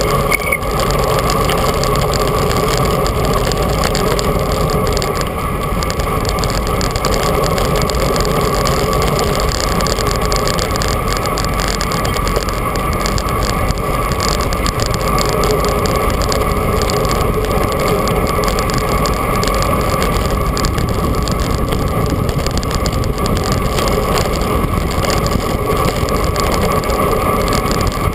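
Steady rush of wind and road noise on an action camera's microphone from a bicycle riding at speed, with a constant hum running through it.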